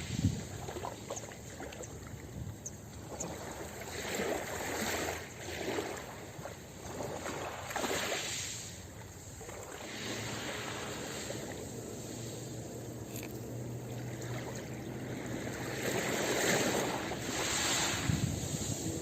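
Ocean waves washing onto a beach, surging and falling back every few seconds, with the biggest surge near the end, and wind in the background.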